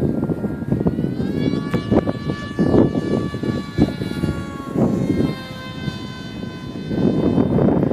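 HobbyKing Radjet RC model plane's electric motor and propeller whining, rising in pitch about a second in and then holding nearly steady. Heavy wind buffeting on the microphone rumbles underneath it in gusts.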